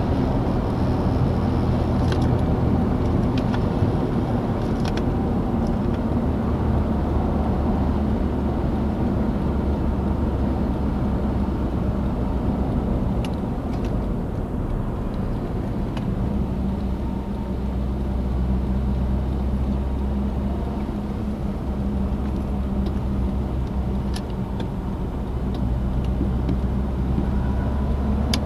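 Citroen DS's four-cylinder engine and road noise while driving at a steady pace, a continuous low drone whose note shifts slightly about halfway through, with a few faint clicks over it.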